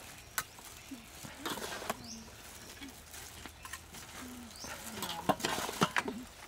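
A bird cooing softly several times, with a few small high chirps. Over it come clicks and clinks of tongs and a spoon working noodles in a steel mixing bowl, the two loudest clinks just past five seconds in.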